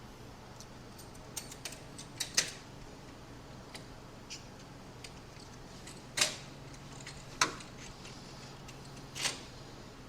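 Hand tools and loose parts clicking and tapping while old wiring is pulled out of a car's engine bay. There are light ticks throughout and four sharper clacks, at about 2, 6, 7 and 9 seconds in, over a faint steady hum.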